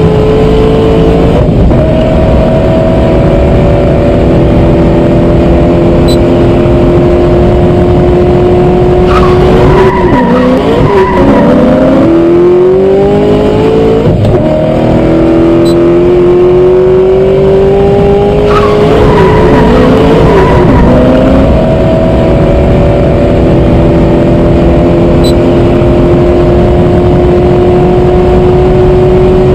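Race-car engine running at high revs, its pitch creeping slowly upward, with two spells where the pitch swoops down and climbs back up, as when a car brakes and speeds up again.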